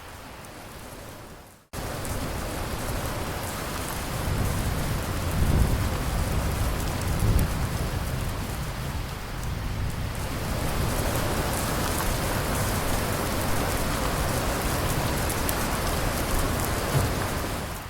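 Steady heavy rain falling, with a low thunder rumble rolling through a few seconds in. Just under two seconds in the rain fades out and then returns at once, louder: a splice between two rain recordings.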